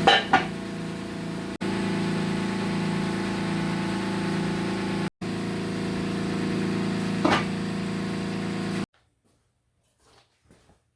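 A steady electric machine hum with a couple of sharp metallic clanks, one right at the start and one about seven seconds in. The hum cuts off abruptly about nine seconds in, leaving only a few faint clicks.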